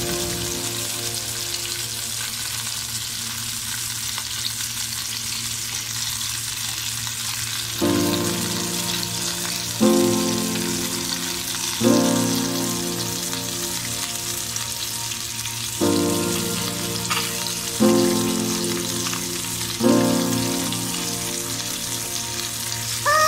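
Skate wing frying in butter and lemon juice in a pan: a steady sizzle. From about eight seconds in, soft background music chords come in about every two seconds.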